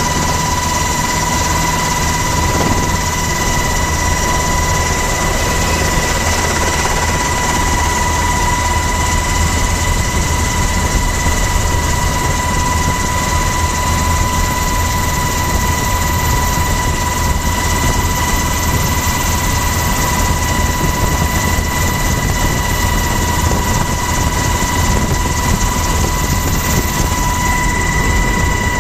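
Helicopter's turbine engine and rotor running during takeoff, heard from the cabin door: a steady high whine over a low rumble and a rushing noise, with no let-up.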